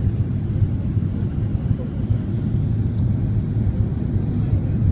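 Steady low rumble of an Airbus A330-300 airliner in flight, engine and airflow noise heard inside the cabin.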